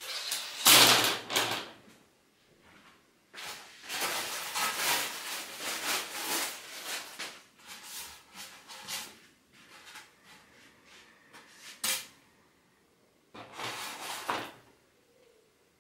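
A bundle of thin wooden skewers clattering and rattling as it is set down and spread across a tabletop, with scattered light clicks of single sticks. Near the end, a short scraping rustle as a large polystyrene foam disc is set down on the table.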